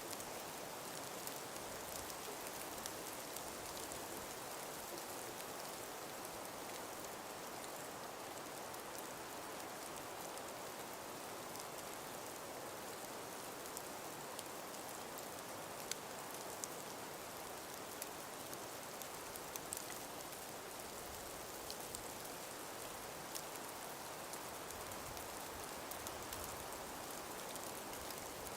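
Calm winter breeze in an icy forest: a steady soft hiss with scattered light ticks and patters throughout.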